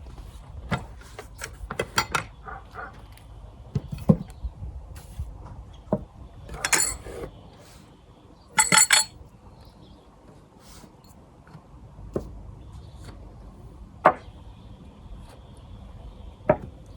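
Objects being handled, giving scattered knocks and clinks. Two louder brief rustling or scraping noises come about halfway through.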